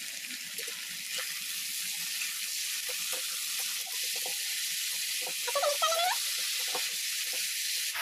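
Potato sticks frying in mustard oil in a heavy kadhai: a steady sizzling hiss, with light taps and scrapes of a metal spatula stirring them.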